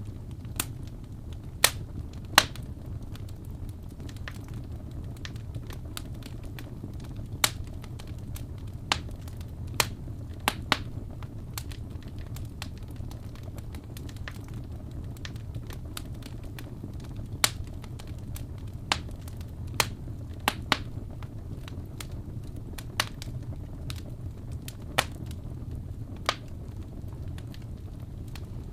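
Wood fire burning in a fireplace: a steady low rumble with sharp crackles and pops at irregular intervals, about one every couple of seconds.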